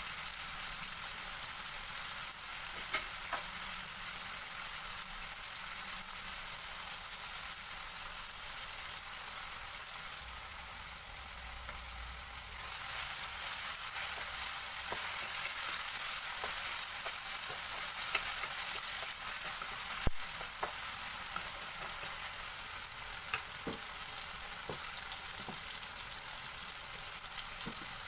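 Chopped tomatoes and onion sizzling in hot oil in a wok, a steady frying hiss. A wooden spatula stirs them, giving scattered light clicks against the pan, with one sharper knock about two-thirds of the way through.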